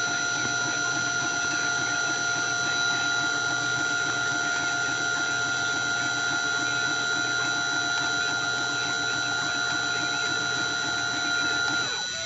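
Dremel rotary tool, used as the spindle of a Cyclone PCB CNC machine, running at a steady high whine while cutting acrylic. Just before the end its pitch dips.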